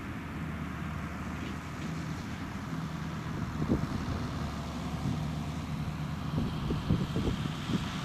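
Diesel engine of heavy farm machinery running steadily, with a few knocks and clunks: one about halfway through and a cluster near the end.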